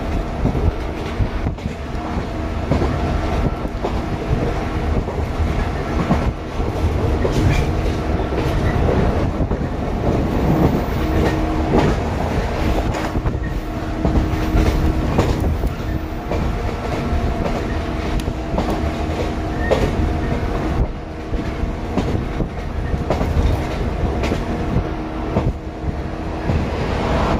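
Running noise inside a Shinano Railway 115-series electric train car at speed with the window open: a constant rumble, wheels clicking over rail joints, and a steady hum from the motors and gears.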